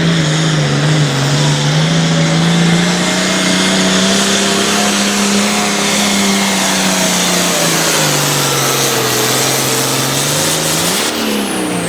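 Modified farm tractor's diesel engine running flat out while pulling a weight-transfer sled. The engine note sags about two thirds of the way through as the load builds, then rises sharply near the end, and a high whine starts to fall.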